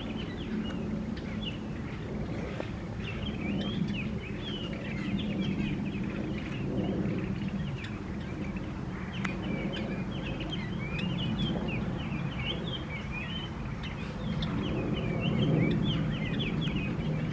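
Many small birds twittering in quick, overlapping chirps over a steady low background rumble.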